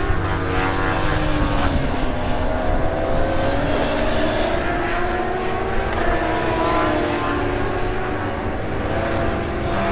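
Superbike racing motorcycle engines running on track, several engine notes rising and falling in pitch as they rev.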